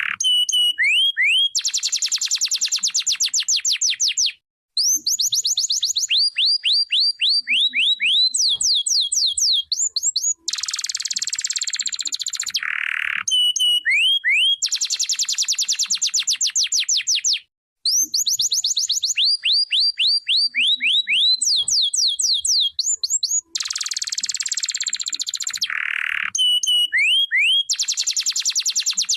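Domestic canary singing a long, continuous song made of rapid trills: runs of quickly repeated, sweeping whistled notes, switching from one trill to the next. There are two brief pauses, about four and seventeen seconds in.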